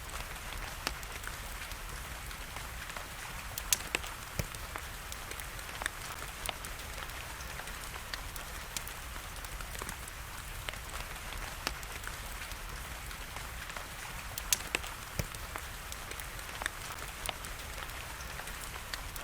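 Wood fire crackling, with scattered sharp pops, over a steady hiss of rain. The loudest pops come about four seconds in and again around fourteen seconds.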